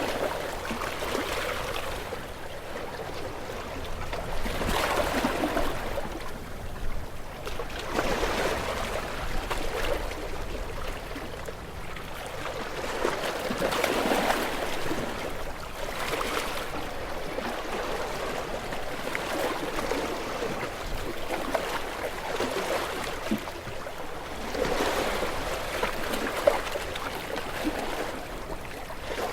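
Gentle waves washing onto a shore, each wash swelling and falling away at irregular intervals of a few seconds.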